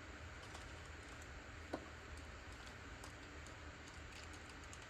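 Faint scattered clicks of plastic Beyblade parts being handled, with one sharper click just under two seconds in, over low room hum.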